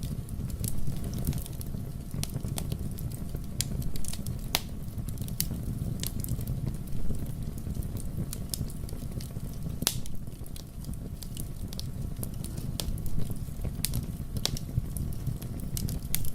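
Wood fire burning in a fireplace: a steady low rumble of flames with irregular, sharp crackles and pops.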